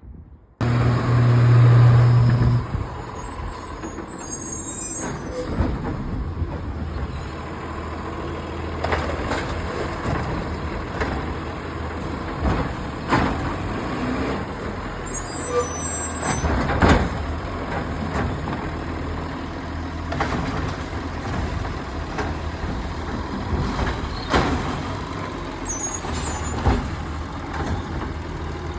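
Garbage truck engine running with a steady low hum and frequent sharp clanks and knocks. It opens with a loud low steady tone lasting about two seconds.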